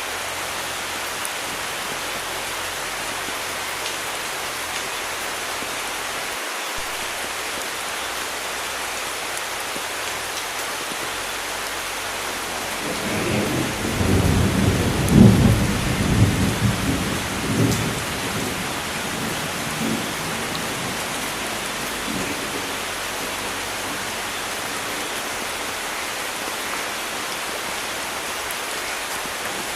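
Steady rain hissing, with a long roll of thunder that swells about halfway through, peaks, and rumbles away over several seconds.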